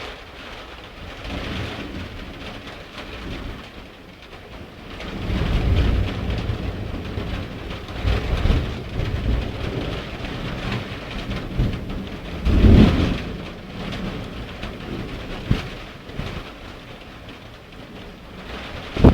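Steady heavy rain with thunder rolling through it in several deep rumbles, the loudest about two-thirds of the way in. A brief sharp knock comes at the very end.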